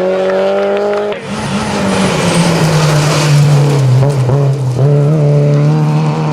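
Rally car engine held at high revs, then about a second in a loud hiss of tyre noise and squeal as the car takes a bend. The engine note sags and then rises again as it drives on.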